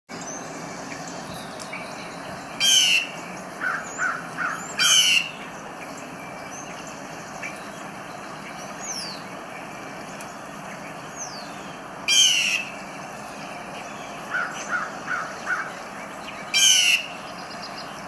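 Wild birds calling: four loud, harsh calls a few seconds apart, and two short runs of three or four lower calls in between, over steady background noise.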